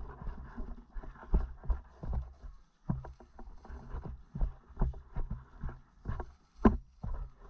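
Footsteps of a player walking over the ground, steady thumps about twice a second with clothing and gear rustling, and one sharper knock near the end.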